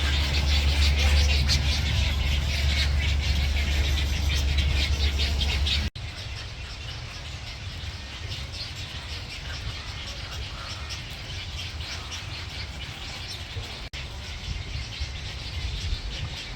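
Many birds chirping and calling at a nesting colony, over a low steady rumble for the first six seconds. The sound cuts off abruptly about six seconds in and again near the end, and the chirping is fainter after the first cut.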